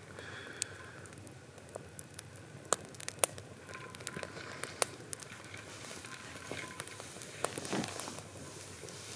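Wood fire crackling, with irregular sharp pops over a low steady hiss.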